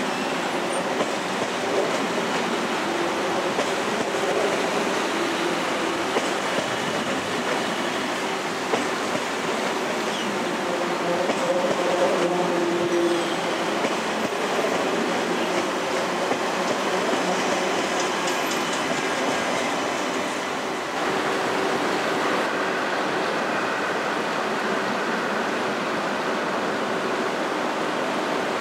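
TGV trainset rolling past on depot tracks: steady noise of wheels on rail, with a faint steady whine and a few clicks.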